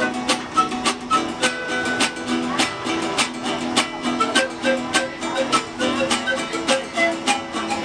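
Music on a plucked string instrument, with quick, evenly paced notes.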